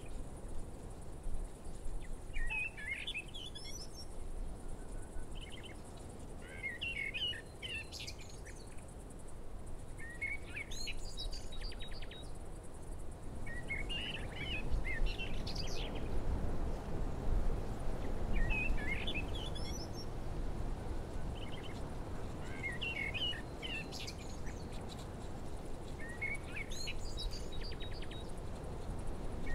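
Outdoor ambience: a songbird singing a short twittering phrase about every four seconds over steady low background noise.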